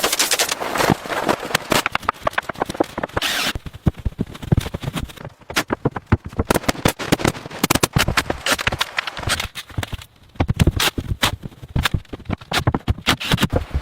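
A rapid, irregular run of sharp knocks and clicks, dense at first, thinning briefly twice, then dense again.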